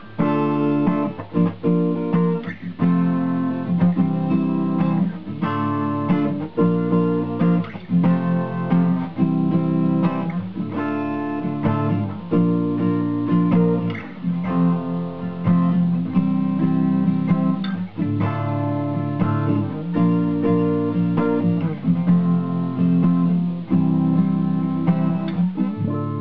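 Acoustic guitar playing the song's chords in a steady rhythm, each chord ringing on between strokes.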